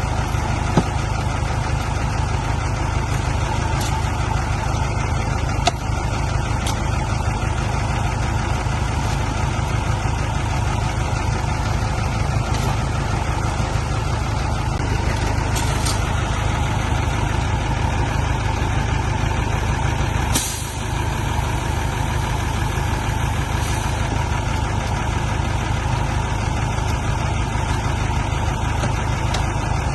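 Heavy diesel engine running steadily under a heavy vehicle. A short hiss of air starts about two-thirds of the way through and lasts a few seconds.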